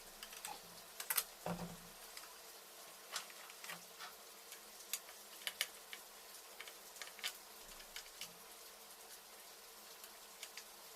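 Scattered light clicks and taps of tools and small metal parts being handled during engine assembly, over a faint steady hiss.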